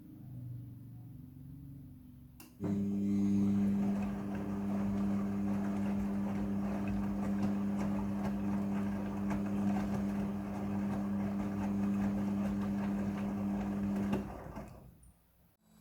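Midea front-loading washing machine mid-cycle: a steady motor hum with a rushing, water-like noise starts suddenly about two and a half seconds in and runs evenly, then fades out about a second and a half before the end. Before it starts there is only a faint, low pulsing hum.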